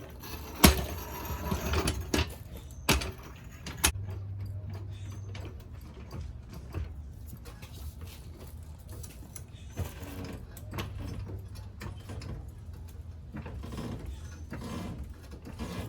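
Floor jack and jack stands being worked under a car as it is jacked up: sharp metal clanks about a second in and again around three and four seconds, with rattling and ratcheting between them.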